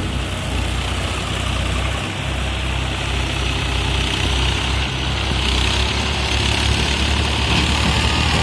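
Sonalika DI 47 RX tractor's diesel engine running steadily, with a hiss growing louder from about three seconds in.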